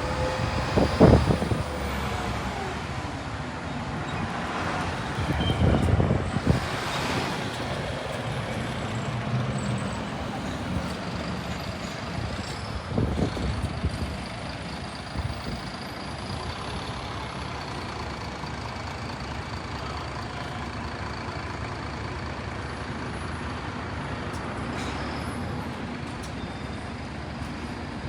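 City street traffic: vehicles pass close by, the loudest about a second in and around six seconds in, with another near the middle, over a steady hum of traffic.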